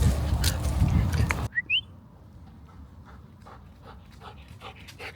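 A dog panting, with a short rising whimper. Rough, loud noise stops abruptly about a second and a half in, and quieter panting follows.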